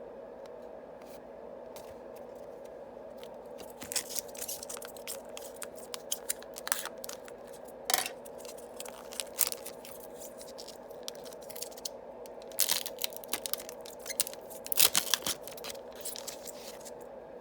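Yu-Gi-Oh booster pack foil wrappers crinkling and tearing open, and trading cards being handled, in bursts of sharp crackling that start a few seconds in, over a steady low hum.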